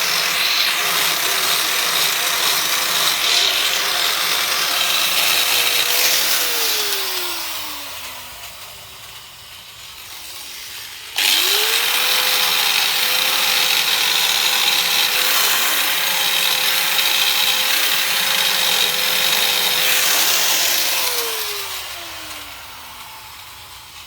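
Angle grinder polishing an aluminium motorcycle engine case: a steady motor whine with a rushing hiss from the wheel on the metal. It is switched off and winds down with a falling whine about six seconds in. It starts again with a quick rise around eleven seconds, runs steadily, and winds down once more near the end.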